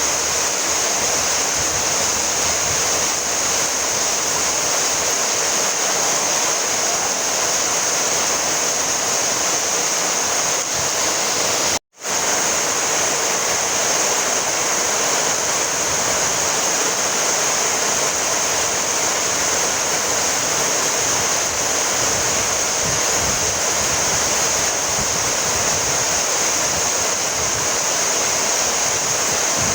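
Steady, dense rainfall hiss. It cuts out to silence for a split second about twelve seconds in, then resumes unchanged.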